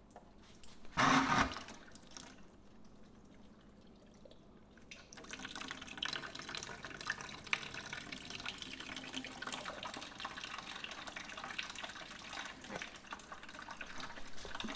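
Water splashing and trickling as a motorcycle's cooling system is flushed with water, running out of the drain hole into a bucket. A brief loud noise comes about a second in, and the water runs steadily from about five seconds.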